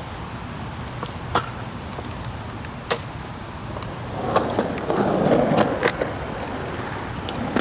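Skateboard wheels rolling on wet pavement, with two sharp clicks in the first half and a louder stretch of rolling noise past the middle.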